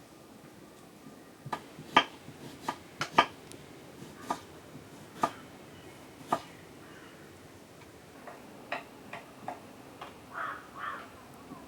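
Kitchen utensils knocking and clicking: about a dozen sharp, irregular knocks, loudest in the first few seconds, then two short harsh sounds near the end.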